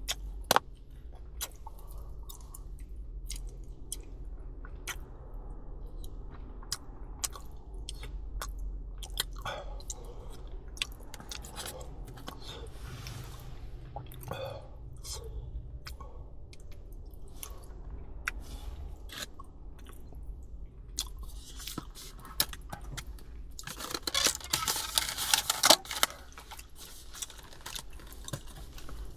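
Close-miked chewing of takoyaki (octopus balls), with wet mouth smacks and scattered small clicks. Near the end there is a louder burst of crackling noise lasting about two seconds.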